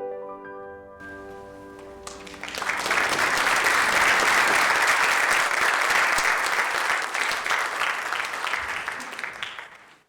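The last chord of a piano accompaniment rings and fades. Then, about two and a half seconds in, the audience breaks into applause that runs for about seven seconds and cuts off abruptly near the end.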